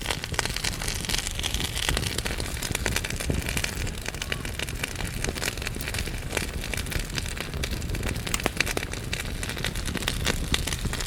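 Wood fire burning in a fireplace, logs crackling and popping over a steady low hiss and rumble.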